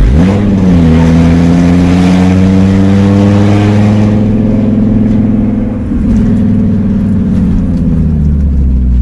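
Fiat Marea HLX's five-cylinder engine running with no exhaust system, loud: it revs up sharply at the start, then pulls under hard acceleration with its pitch climbing slowly, and eases off near the end. Wind noise on the microphone rides over it.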